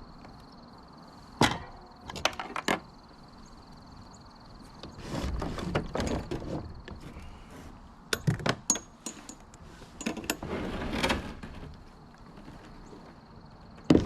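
Irregular knocks and clatter with two stretches of rustling, scraping noise, over a faint steady high whine.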